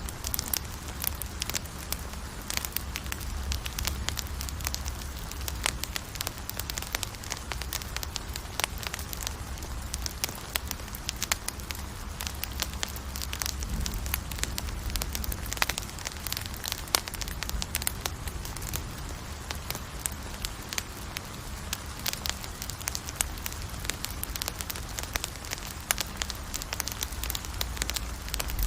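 Campfire burning, with dense irregular crackles and sharp pops over a steady low rumble.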